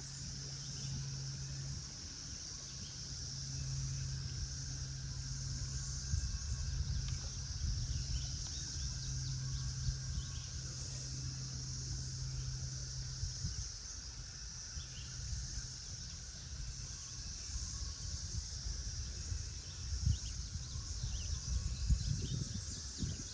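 Cicadas droning in a steady, unbroken chorus, with a low rumble underneath.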